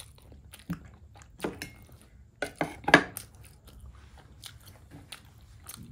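Close-miked chewing of a steamed chicken momo: wet mouth clicks and smacks, louder a few times around the middle.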